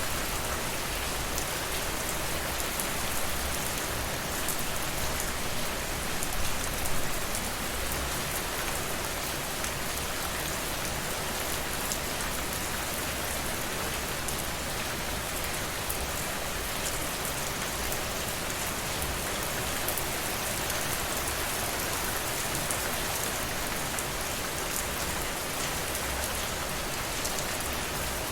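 Steady rainfall, drops pattering densely on a surface, with a few slightly louder gusts about six to seven seconds in.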